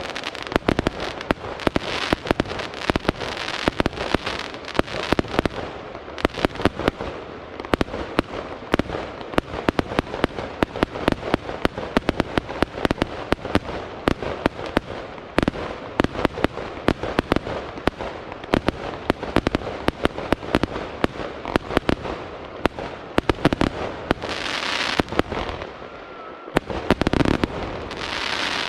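Aerial fireworks display: a rapid, continuous barrage of shell bursts and sharp reports, several bangs a second, with stretches of hissing crackle near the start and again near the end.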